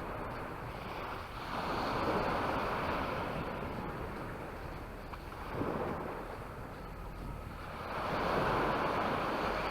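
Waves breaking and washing up on a beach: two swells of surf about six seconds apart, with a brief swish about halfway between them.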